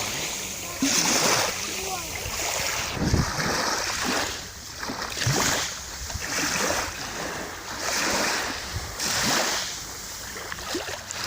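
Small sea waves washing onto the shore, the hiss of the water swelling and fading every couple of seconds.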